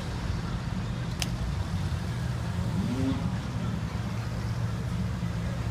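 Ferrari 430 Scuderia's 4.3-litre V8 running at low revs with a steady low rumble, and a brief click about a second in.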